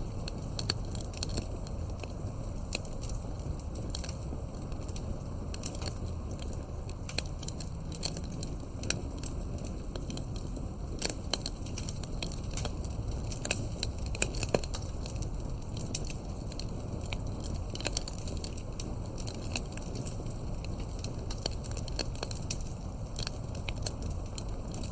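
Campfire burning, the wood crackling and snapping in many irregular pops over a steady low rush of flame.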